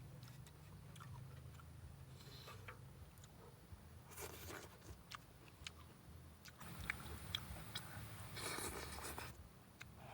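A person chewing and eating at close range, with small wet clicks and crunches, and two longer noisy stretches of chewing about four seconds in and again near the end.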